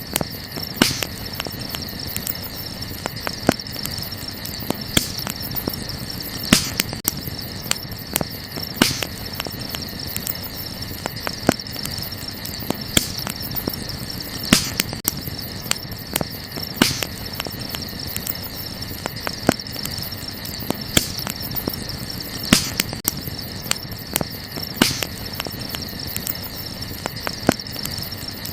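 Wood fire crackling, with irregular sharp pops and snaps over a steady low hiss. A constant high insect trill, like crickets, runs behind it.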